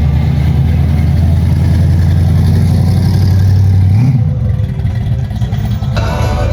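Classic car engine running with a loud, low note as the car drives off, with a short rev about four seconds in before the sound drops away. Music starts near the end.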